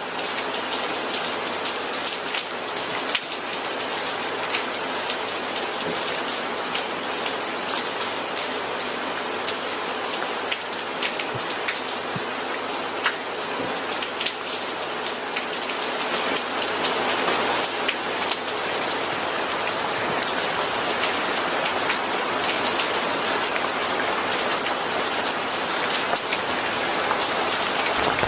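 Steady rain falling on a surface, with many individual drops ticking through a dense hiss; it grows a little heavier about two thirds of the way in.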